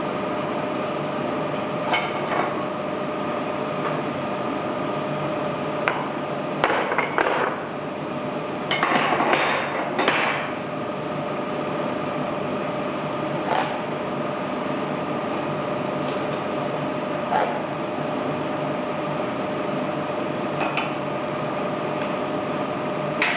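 Metal tools and injector parts knocking and clinking on a workbench as the next diesel injector is handled, over a steady workshop hum. Single knocks come every few seconds, with a louder run of clatter about nine to ten seconds in.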